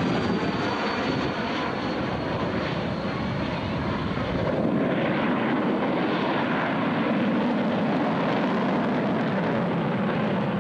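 Military jet engine noise as the jet flies its display with gear down and power applied: a loud, steady rush, with a faint high whine sliding down slightly at the start.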